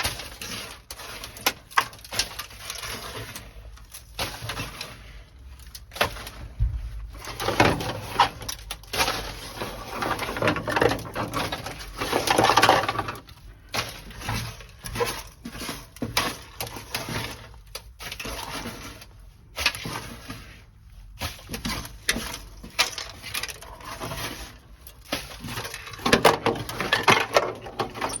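Dry-ice-frozen sound-deadening mat being cracked and chipped off the car's sheet-metal floor: irregular sharp cracks and knocks with brittle pieces clattering, in denser spells about a third of the way in and near the end. The cold makes the asphalt-type mat brittle so it breaks away from the metal.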